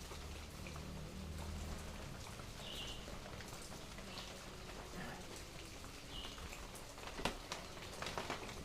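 Rain falling steadily, a soft even patter of drops. A few short high blips come through, and several sharp taps sound near the end.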